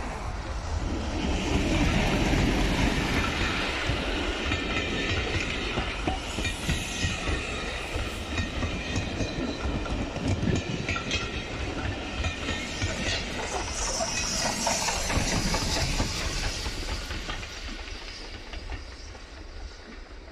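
A diesel-hauled passenger train passing close by. The locomotive's engine is heard first, then a steady clickety-clack of the coaches' wheels over the rail joints, which fades near the end as the train moves away.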